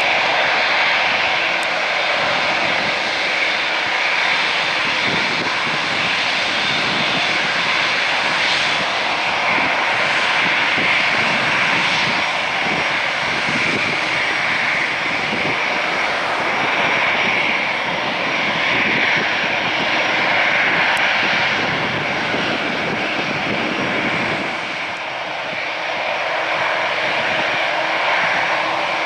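Jet engines of a Boeing 787-8 Dreamliner running, a steady loud rushing noise with a faint low hum underneath that eases slightly about 25 seconds in.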